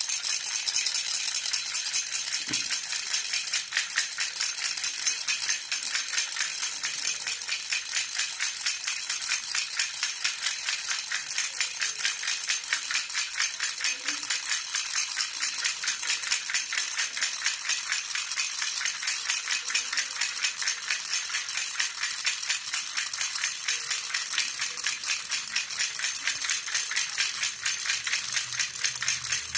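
Metal jhunjhuna baby rattle shaken continuously in a quick, steady rhythm, its bright jingling even throughout.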